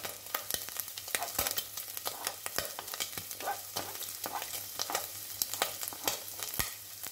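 Diced bacon and sausage sizzling in hot oil in a pot as chopped garlic is scraped off a plastic cutting board into the fat with a wooden spoon, with frequent sharp clicks over the steady sizzle.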